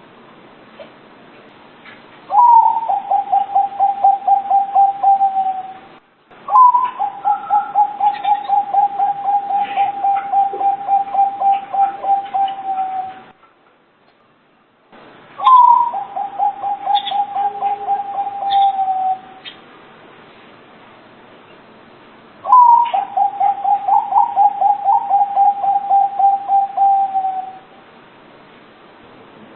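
Zebra dove (perkutut) cooing: four bouts of its song, each a higher opening note followed by a fast run of short, even coos at a steady pitch, lasting from about three to six seconds.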